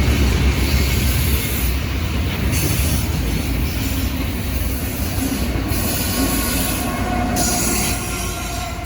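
Norfolk Southern freight train rolling past, its steel wheels squealing on the rail over a heavy low rumble. The sound starts to fade near the end.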